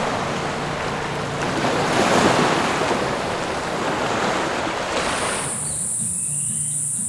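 Water rushing past a sailboat's hull under sail, with wind on the microphone, swelling and easing in surges. About five seconds in it cuts out, and a steady high-pitched buzz with soft music takes over.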